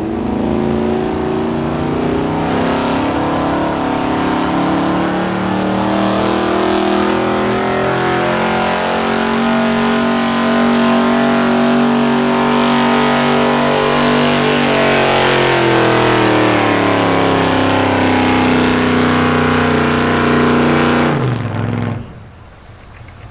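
Gasoline street-class pulling truck dragging a weight-transfer sled, its engine held at high revs under heavy load for about twenty seconds. The pitch sags slowly over the last several seconds as the load builds, then the revs drop sharply and the engine sound falls away near the end.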